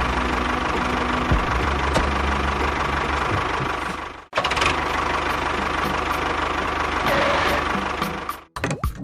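Mini tractor's small engine running with a fast, even chug. It cuts out abruptly for a moment about four seconds in, then runs on and dies away just before the end.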